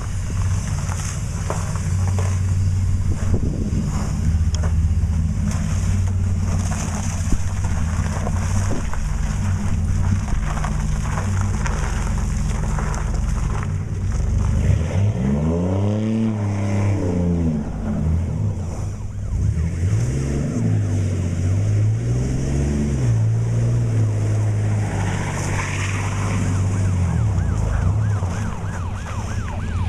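Pickup truck engine running and revving up and down as the truck spins around in deep snow, the revs rising and falling twice near the middle, with wind buffeting the microphone.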